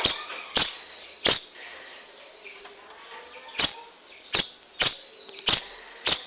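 Caged songbird making a string of sharp clicks, about eight at uneven intervals, with faint high chirps and a steady high hiss between them.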